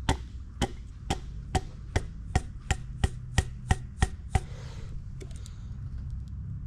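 A piston being tapped down through a ring compressor into a 2.5L engine's cylinder bore with a rubber mallet: about a dozen sharp taps, two to three a second, that stop about four and a half seconds in. The stop at a hard spot is usually the sign of a piston ring that has popped out of its groove.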